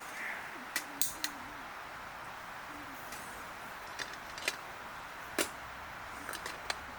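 A few short, sharp clicks and taps, scattered irregularly, over a steady background hiss.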